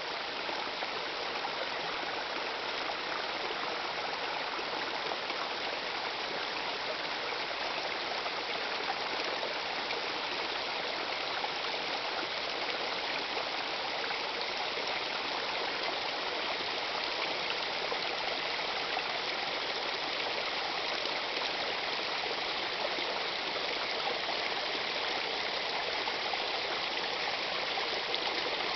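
Small waterfall running steadily: an even, unbroken rush of falling and splashing water.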